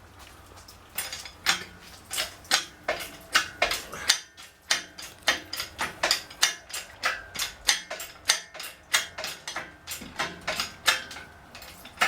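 Rapid, irregular metallic clicks and clinks, about three or four a second, from tools or lifting gear working on a V8 engine being pulled from the truck. There is a brief pause about four seconds in.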